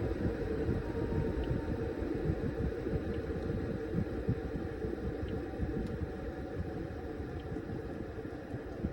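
Washing machine running a load of towels: an uneven low churning rumble under a steady hum, with a faint tick about every second and a half.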